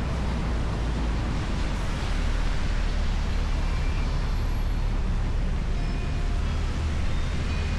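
Steady low wind rush and road noise from riding an electric unicycle, with a few faint short tones.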